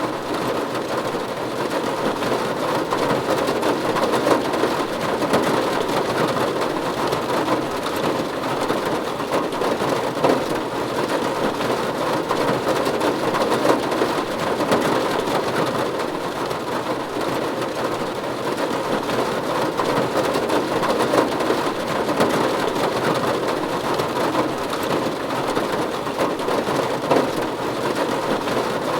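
Steady rain falling on a roof: a dense, even patter of drops that holds at the same level throughout.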